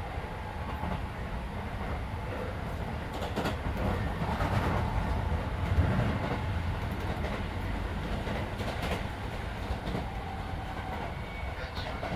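Keisei 3400 series electric train running at speed, heard inside the passenger car: a steady low rumble with wheels clicking over rail joints a few times, swelling in the middle.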